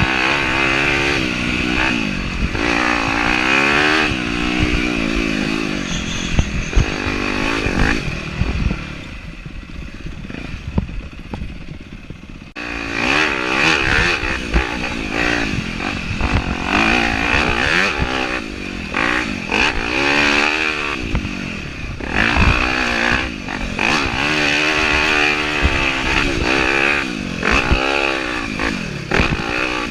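Yamaha YZ250F four-stroke single-cylinder dirt bike engine being ridden hard, its pitch rising and falling every second or two as the throttle is worked on and off. It drops lower and quieter for a few seconds before a third of the way in, then comes back loud abruptly.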